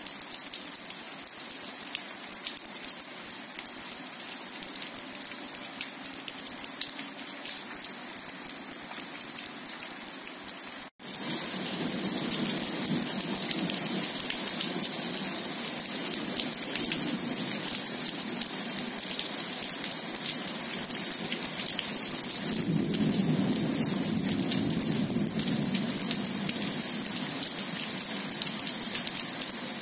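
Heavy rain pouring onto wet asphalt and grass, a steady hiss. About a third of the way in the sound drops out for an instant and comes back louder, and later a low rumble of thunder swells for a few seconds.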